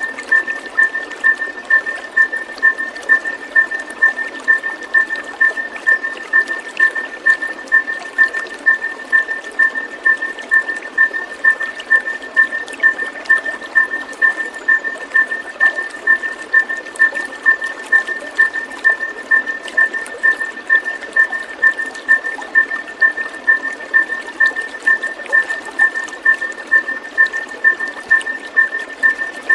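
Running water with an evenly repeating high chirp, about two a second, that keeps going without a break, part of a looped calming soundscape for caged birds.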